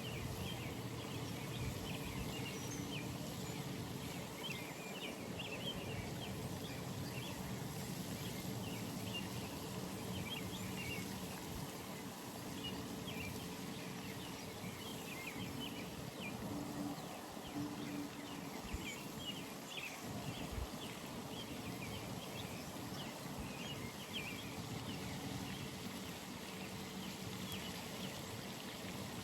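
Early-morning pond ambience: a dense, steady chorus of many small high chirps from animals around the pond, over a low steady hum.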